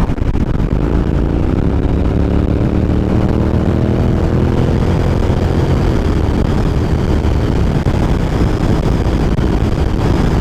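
Honda NC700X motorcycle's parallel-twin engine running under way, its pitch rising smoothly over the first four or five seconds as the bike accelerates, then holding steady, with wind rushing over the microphone.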